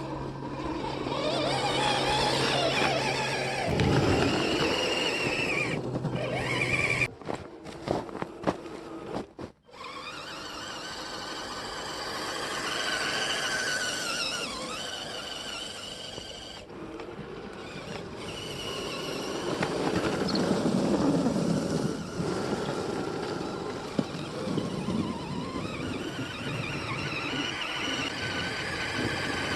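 Electric motors and gearboxes of scale RC trucks whining, the pitch rising and falling with the throttle; the sound cuts out briefly several times about a quarter of the way in.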